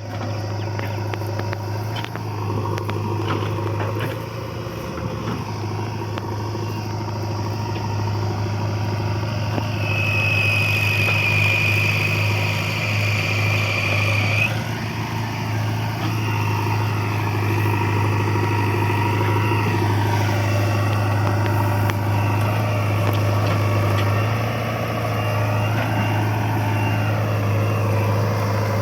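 Swaraj tractor's diesel engine running steadily under load while pulling a loaded trolley. A high steady tone sounds for about four seconds about a third of the way in.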